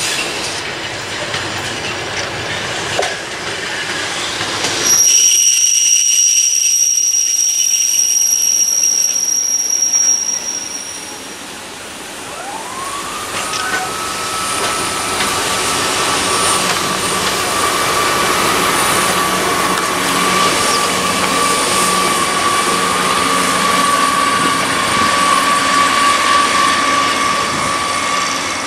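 Network Rail engineering train of flat wagons, hauled by Class 73 electro-diesel locomotives, running past with steady rail noise. A high-pitched wheel squeal holds for several seconds, and about halfway through a whine rises in pitch and then holds steady.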